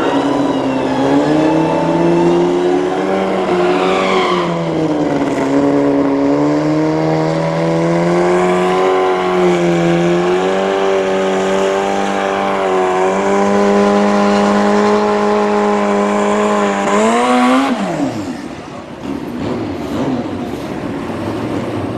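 A drag-racing vehicle's engine running hard at high revs. The pitch stays high with a few slow dips and rises, then falls steeply and fades about eighteen seconds in as the throttle closes.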